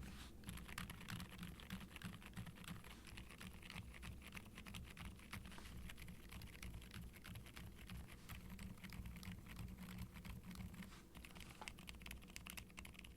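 Typing on a Qwertykeys Neo65 Cu keyboard with WEKT Lucy V5 silent linear switches, an ABS plate and double-shot ABS keycaps: a quiet, continuous run of soft, muffled keystrokes. The switches' TPU-cushioned stems damp the bottom-out, so only faint clicks come through.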